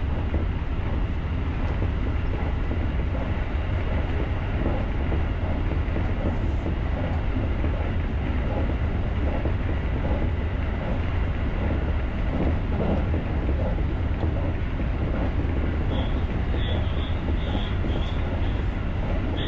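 JR rapid electric train running along the track, a steady low rumble of wheels on rail. Near the end a high bell starts ringing about twice a second.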